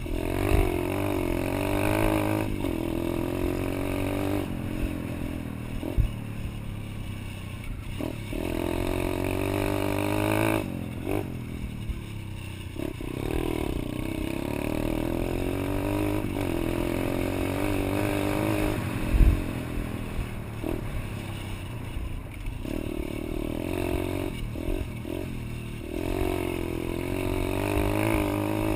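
Pit bike engine revving up and down as the throttle is opened and closed again and again, its pitch rising and falling with short dips where it is let off. There is a low thump about two-thirds of the way through.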